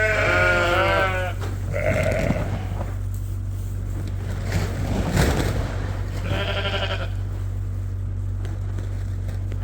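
Sheep bleating in a barn: a long quavering bleat at the start, a short one about two seconds in, and another a little past six seconds in, over a steady low hum.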